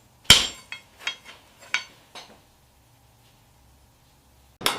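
Blacksmith's hammer on a knife blade and anvil: one hard metallic strike, then a few lighter clinks dying away over about two seconds. Quiet follows, then another sharp metal clank near the end.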